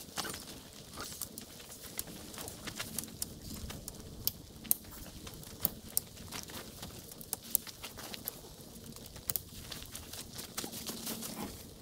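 Light rain: scattered drops ticking sharply and irregularly on a surface close by, with no rhythm, over a faint steady low hum.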